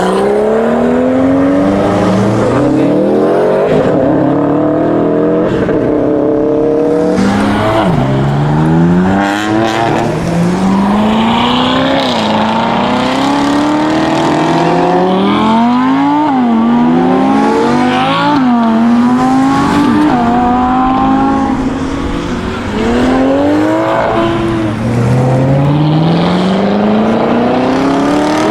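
Several sports cars accelerating hard one after another, engines revving up through the gears: the pitch repeatedly climbs and drops back at each upshift, with the cars' sounds overlapping.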